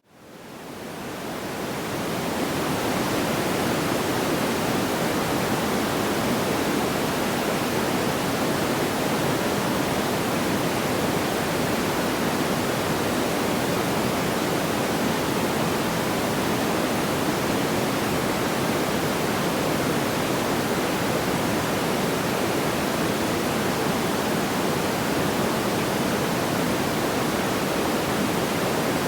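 Steady, even rushing noise with no crackles or pops, fading in from near silence over the first two seconds, then holding level.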